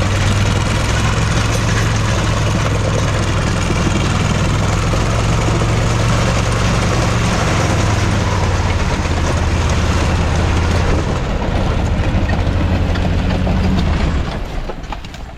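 Tucker Sno-Cat driving in third gear, its engine running steadily under load, fading away near the end.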